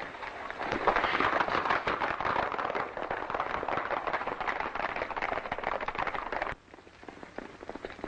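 Hoofbeats of several horses at a gallop, a dense clatter that cuts off abruptly near the end and gives way to fainter, sparser hoofbeats.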